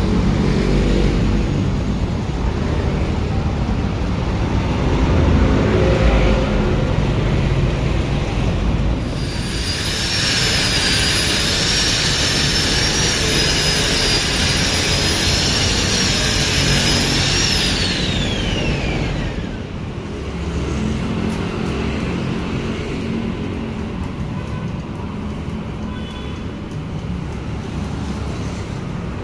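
A power grinder works on the stainless exhaust header pipe for about eight seconds with a high, wavering whine. It is then switched off and its whine falls away as it spins down. Background music plays underneath throughout.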